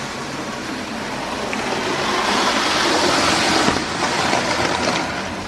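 Model train running along the layout's track, a steady wheel-and-motor rumble that grows louder in the middle and eases off near the end as it passes.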